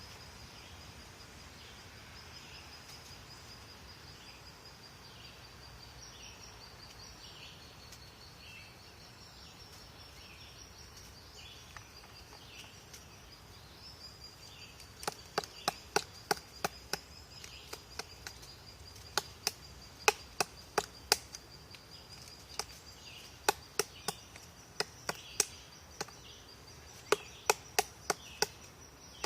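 Woodpecker pecking at wood: sharp single taps that begin about halfway through and come irregularly, often in short runs of two or three.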